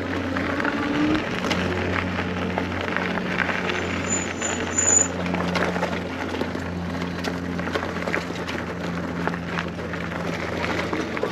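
Electric bike riding noise: wind and tyre noise with frequent small rattling clicks and a steady low hum underneath.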